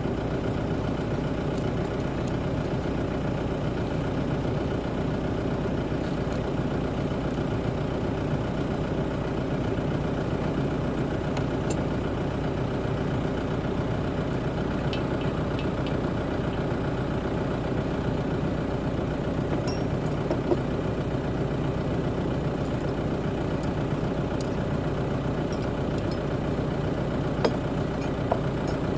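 BCS Volcan K105 compact tractor engine running steadily at an even speed, with a few small clicks near the end.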